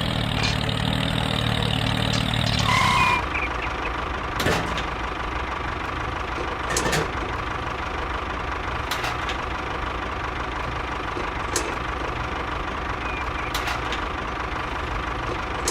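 Miniature model construction machine running with a steady engine-like drone, louder for the first three seconds, then quieter and even, with a few scattered short clicks.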